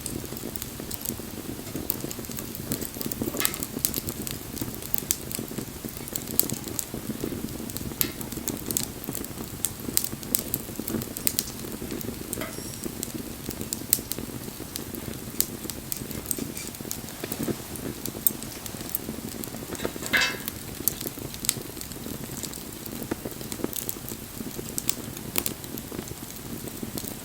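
Wood bonfire burning: a steady low rush of flames with frequent sharp pops and crackles, and one longer crackle about twenty seconds in.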